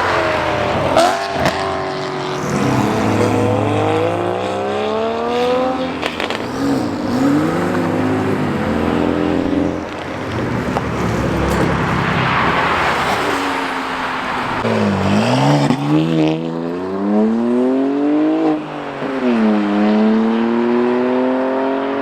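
Performance car engines revving and accelerating, their pitch repeatedly climbing, dropping and climbing again as cars pull away.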